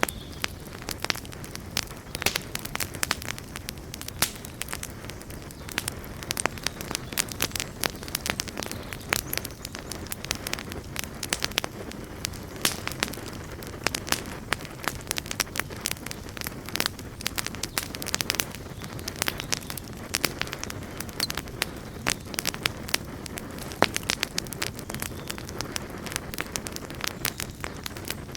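Campfire burning steadily, a low rumble of flame under frequent sharp, irregular crackles and pops from the burning wood.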